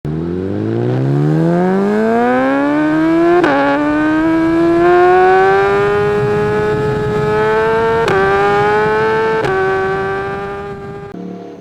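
Motorcycle engine accelerating hard, its pitch climbing through the revs and dipping sharply at three upshifts, about three and a half, eight and nine and a half seconds in, before it falls away near the end.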